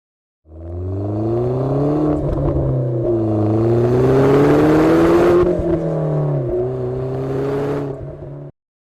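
Toyota GT86's flat-four boxer engine running through a Ragazzon stainless steel full exhaust system, its revs rising and falling several times. The sound cuts off suddenly near the end.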